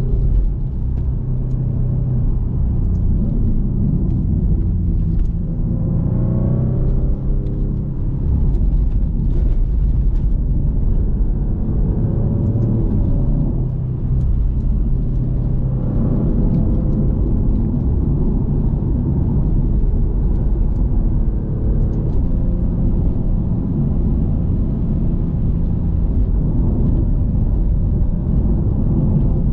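Maserati GranTurismo Modena's twin-turbo 3.0-litre Nettuno V6 running under way over a steady low road rumble. The engine note rises twice, about six seconds in and again around sixteen seconds, as the car pulls.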